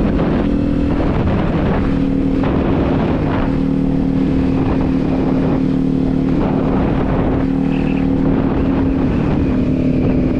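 Kawasaki Z400 parallel-twin engine running at a steady cruising speed, with rushes of wind noise on the microphone coming and going every second or two.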